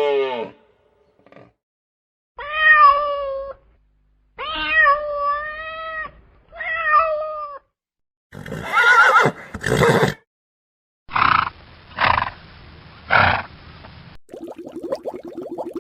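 A run of different animal calls, one kind after another: three drawn-out pitched cries, then harsher, rougher calls, then three short loud cries, and a fast rattling sound near the end.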